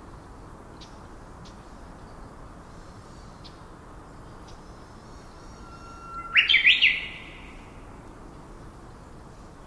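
A bird calls loudly about six seconds in: a held steady whistle, then a quick run of about four sharp rising notes, over a steady hiss and faint high chirping of other birds.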